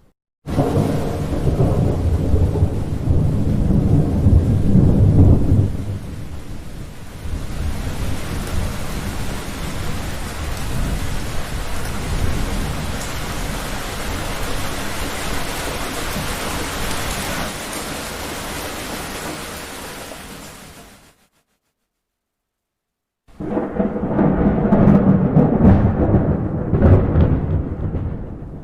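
Thunderstorm: a loud rolling peal of thunder over heavy rain, then steady rain that fades away. After a couple of seconds of dead silence, a second loud thunder rumble starts abruptly near the end.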